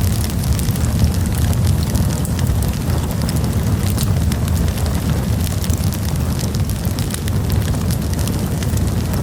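Campfire burning, with a steady low rumble of flames and frequent sharp crackles and pops from the burning wood.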